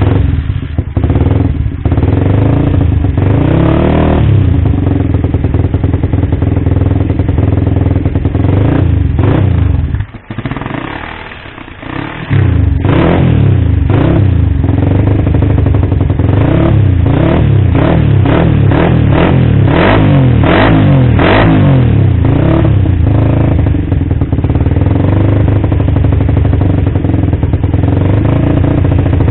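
Suzuki Satria FU's single-cylinder four-stroke engine revved hard through an aftermarket exhaust, loud blips rising and falling in pitch. About ten seconds in it drops briefly to a quieter idle, then a long run of quick revs follows.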